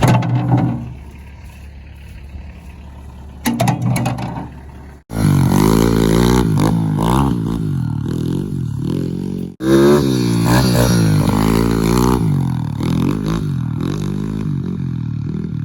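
Kawasaki KLX110 big-bore pit bike's single-cylinder four-stroke engine revving up and down in quick swings of pitch, quieter for the first few seconds and then loud. The sound breaks off suddenly twice, about five seconds in and again near ten seconds.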